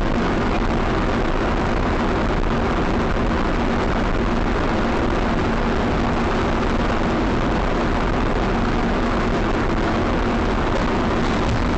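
Steady road, wind and engine noise of a moving car, picked up by a dashcam: an even rush of noise with a steady hum under it.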